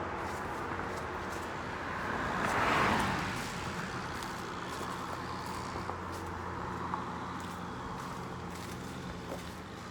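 A vehicle passing by on the nearby road, its tyre and engine noise swelling to a peak about three seconds in and fading away, over a steady background of traffic hum.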